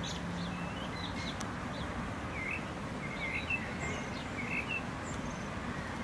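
Birds chirping: short calls repeated every second or so, over a steady outdoor background hiss.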